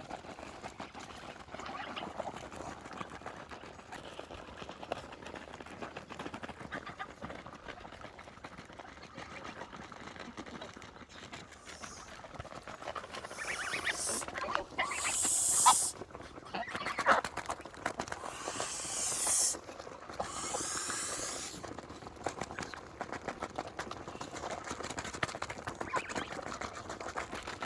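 A flock of Toulouse geese feeding, with a steady crackly chatter of bills working at their food. About halfway through come two louder rustling bursts, each lasting a couple of seconds.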